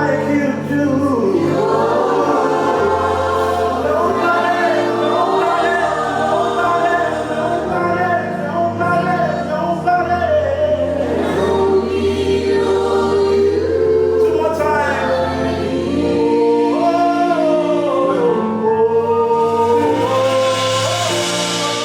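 Gospel worship music: a group of singers holding long sung lines over sustained bass and keyboard chords.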